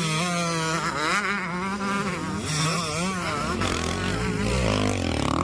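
Motocross bikes' engines buzzing and revving, the pitch rising and falling over and over, with a lower steady drone taking over after about three and a half seconds.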